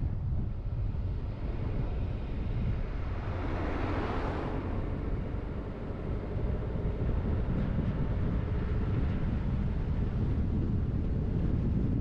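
Car driving along a road: steady low rumble of engine and tyre noise, with wind buffeting the microphone. About four seconds in, a brief swell of hissing noise rises and fades.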